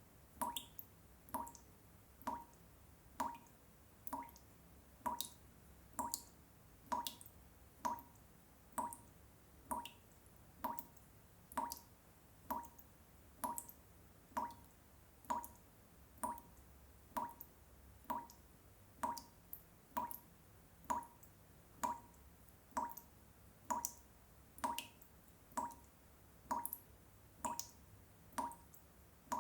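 Water drops falling one at a time at an even pace, about one a second, each a short drip with a clear note.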